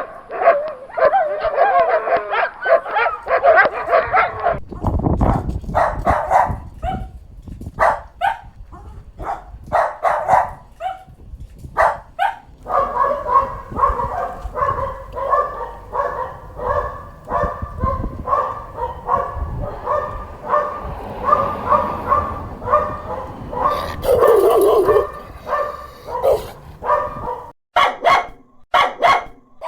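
Dogs barking in a string of short clips: wavering high-pitched whining at first, then single barks, then a long run of rapid high yaps at about two to three a second, with a few loud barks near the end.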